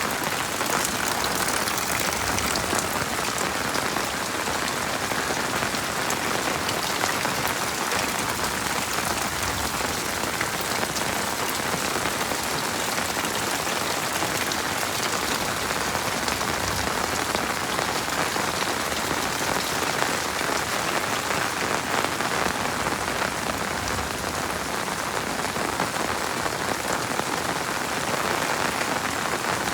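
Heavy rain falling steadily, a dense even hiss with many small drop hits.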